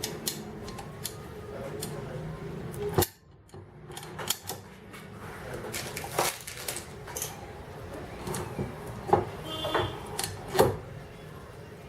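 Irregular small metal clicks and clinks of screws and waveguide components being handled and fastened together, with the background dropping out suddenly about three seconds in.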